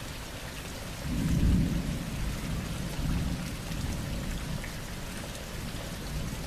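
Thunder rumbling over steady heavy rain: a low rumble swells about a second in, then rolls on and slowly fades over the next few seconds while the rain hisses throughout.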